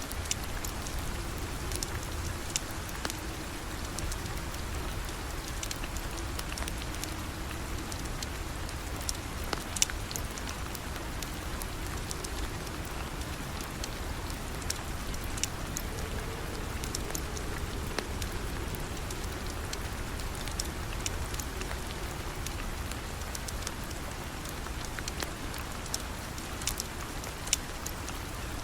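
Steady rain falling, with scattered sharp ticks and crackles throughout, the loudest about ten seconds in.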